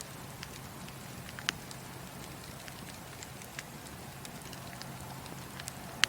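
Wood fire crackling in a fireplace: a steady soft hiss with scattered sharp pops and snaps, the loudest about a second and a half in and another right at the end.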